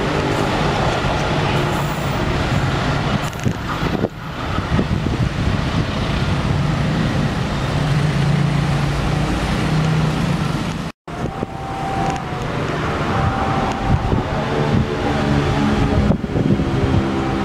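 Passenger train carriages rumbling away along the track. After a sudden break, a steady rumble continues, and an engine drone grows stronger near the end.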